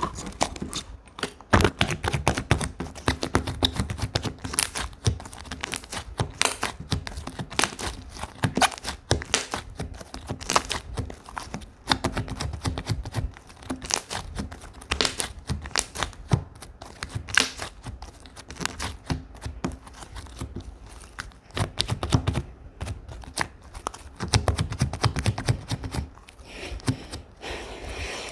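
Slime being squished and worked in the hands, making a dense, irregular run of small clicks and pops.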